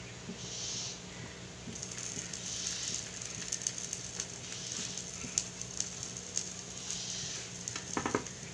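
Faint sizzling and crackling of a filled chapati (marthabak) cooking on a hot pan over low heat, with scattered small pops. A brief pitched call sounds near the end.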